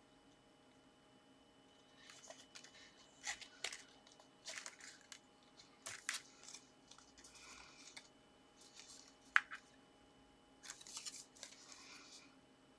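Card being handled, slid and pressed into place in short scratchy rustles, with a single sharp tap about nine seconds in.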